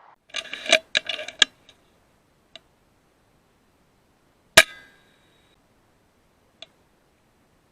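A single shot from an FX Impact M3 .22 PCP air rifle, a sharp crack with a short ringing tail, about halfway through. It is preceded by a quick run of clicks and knocks and followed later by one small click.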